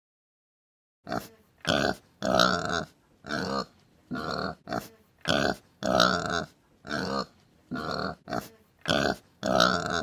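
Domestic pig grunting and oinking: a string of about a dozen short calls with brief gaps between them, starting about a second in.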